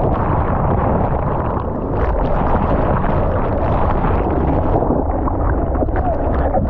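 Ocean surf and sloshing water with a steady low rumble of wind on the microphone, loud and continuous.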